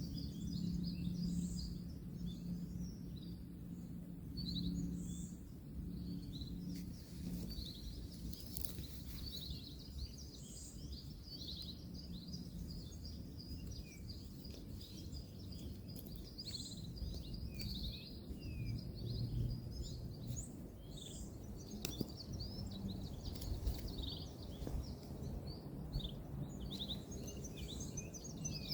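Several small birds chirping and trilling high up, over a steady low rumble of distant road traffic. A low hum runs through the first several seconds, and there are a few faint clicks.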